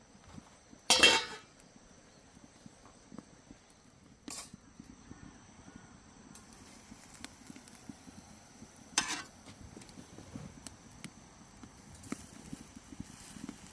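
Three short, harsh knocks or scrapes, the loudest about a second in and the others at about four and nine seconds, over scattered small clicks and taps.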